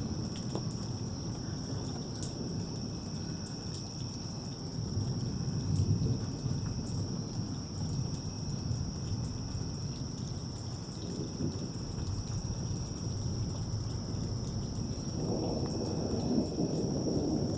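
Thunder rumbling low and rolling in a thunderstorm, swelling about five seconds in and growing louder near the end, with rain and a steady high-pitched whine behind it.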